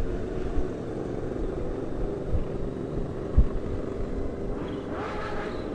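Honda Gold Wing motorcycle running steadily at road speed, with low wind thumps on the microphone and a short rising whine near the end.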